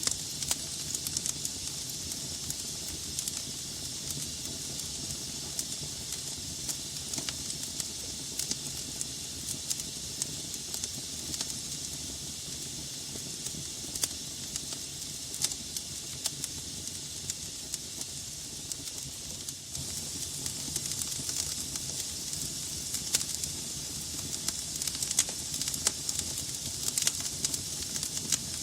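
Wood logs burning in a fireplace: a steady hiss of flame with frequent sharp, irregular crackles and pops.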